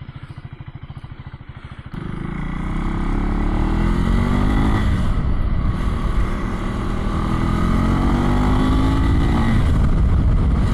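Husqvarna Svartpilen 401's single-cylinder engine idling with steady even pulses, then about two seconds in pulling away and accelerating: the pitch rises, breaks for a gear change about five seconds in, rises again, and settles into steady running near the end.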